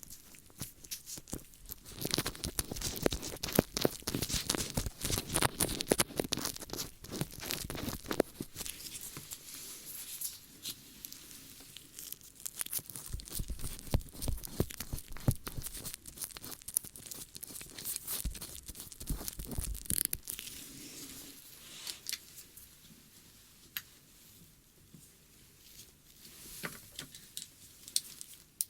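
Close-miked ASMR ear-cleaning sounds: dense crackling scratches and rustles, busiest for most of the stretch and thinning out near the end.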